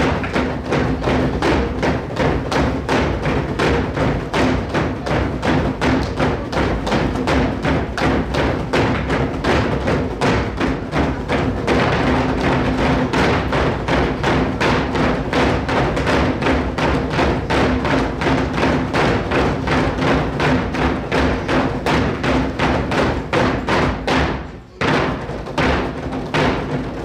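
Group nanta drumming: many drums struck with sticks in unison, a steady fast beat of about three to four strokes a second over recorded backing music. The drumming breaks off briefly near the end, then resumes.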